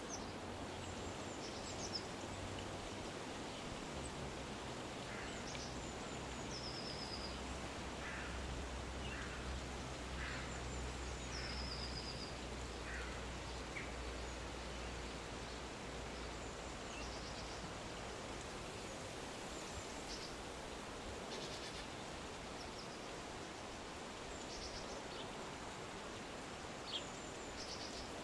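Small birds chirping now and then, short high calls scattered throughout and a run of lower chirps in the middle, over a steady outdoor hiss. A low hum sits under the first half and then fades.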